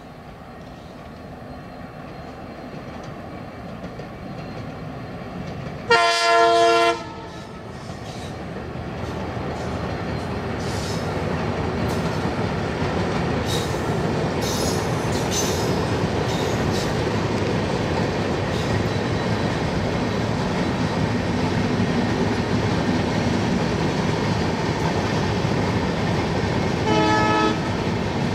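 Diesel locomotive horn sounding once for about a second, then the rising, steady rumble and clickety-clack of a long rake of passenger coaches running past. A second, shorter horn blast comes near the end.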